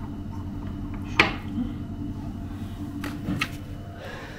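Small hard household objects being handled: one sharp click about a second in and a few lighter taps near three seconds, over a steady low hum.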